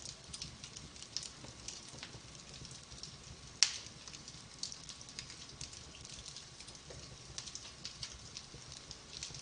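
Wood fire in a fireplace crackling, with many small pops and one sharp, much louder pop about three and a half seconds in.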